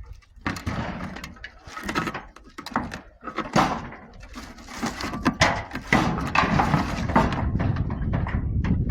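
Heavy scrap metal being lifted and loaded onto a truck: a rapid, irregular series of metal clanks, knocks and thuds. A steady low rumble sets in about six seconds in.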